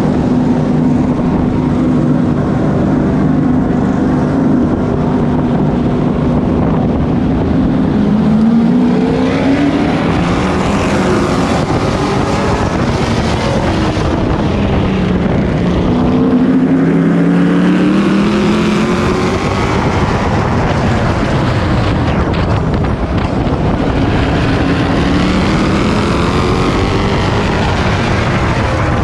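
Race truck's engine heard from on board. It holds a steady pitch for the first several seconds, then repeatedly revs up and drops back as the truck accelerates down the straights and lifts for the turns.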